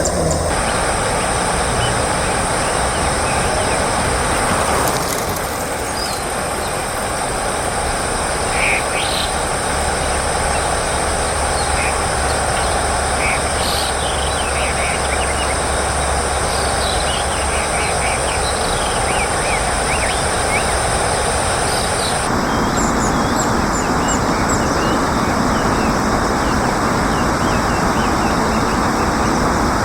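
Steady outdoor background noise with a low rumble and hiss, like distant traffic or running water, and faint high chirps from small birds. The background shifts abruptly about 5 seconds in and again about 22 seconds in.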